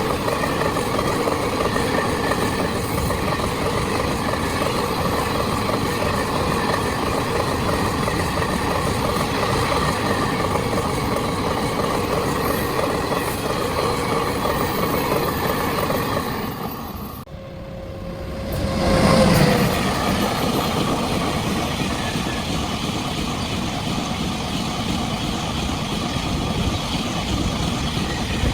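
Steady running noise of a moving vehicle. It dips sharply about seventeen seconds in, then swells back with a brief low rumble.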